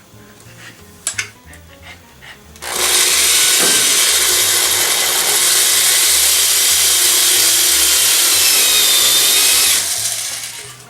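Electric drill boring into a broken rubber pin in a wooden resonator box. It starts about three seconds in, runs loud and steady for about seven seconds, and winds down near the end. A few light taps come before it.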